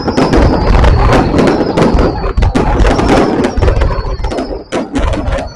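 Fireworks going off in rapid, dense succession: a continuous run of sharp bangs and crackles. A faint high whistle slides slowly down in pitch underneath.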